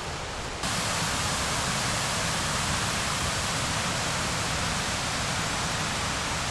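A mountain waterfall's falling water rushing steadily. The sound becomes louder and fuller less than a second in, then holds even.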